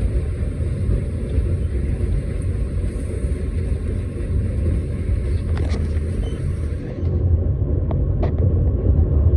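Walt Disney World Railroad steam train rolling along, heard from aboard a passenger car: a steady low rumble with a high hiss that stops about seven seconds in, and a few sharp clicks in the second half.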